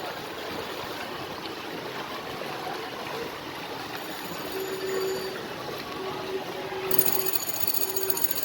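A vehicle moving through deep floodwater: a steady rush of churned water and running engine. A faint broken tone sounds in the middle, and a high whine starts about seven seconds in.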